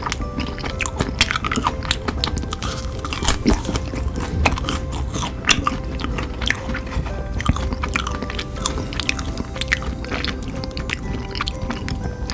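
A person biting and chewing crunchy food close to the microphone, with many sharp crunches, over background music.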